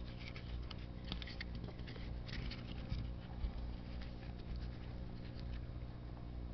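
Hands working a foam pre-cleaner over a paper air filter element: soft scratchy rubbing and rustling with a few sharper little clicks, over a low steady hum.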